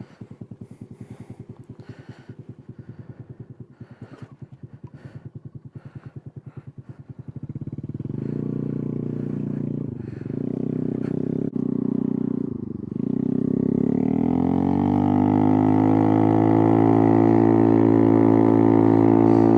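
Honda Navi's single-cylinder four-stroke engine through a Hot Lap aftermarket exhaust with the silencer removed: idling with an even pulse, then revving up as the scooter pulls away, easing off twice, and accelerating with the pitch climbing steadily over the last several seconds.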